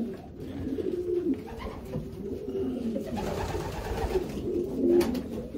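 Racing pigeons cooing, low wavering coos that overlap and run on without a break.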